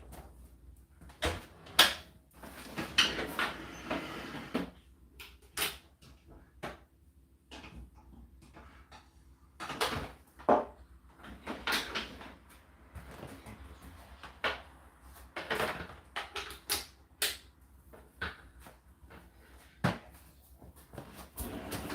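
Irregular knocks, clicks and rustles of laundry and plastic parts being handled at a condenser tumble dryer, with no steady rhythm. Near the end a steady low hum starts.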